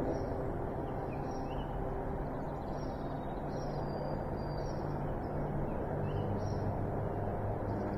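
Small birds chirping in short, high, repeated notes over a steady low rumble.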